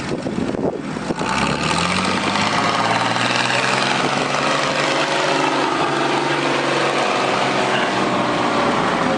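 Antique farm tractor engine opening up under load, its pitch rising about a second in, then running steady and hard through the pull.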